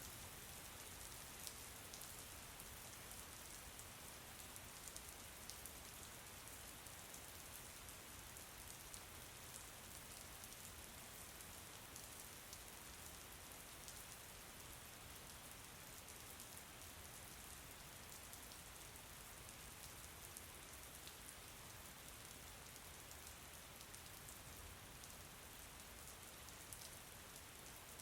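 Steady, faint rainfall, an even hiss sprinkled with fine ticks of individual drops.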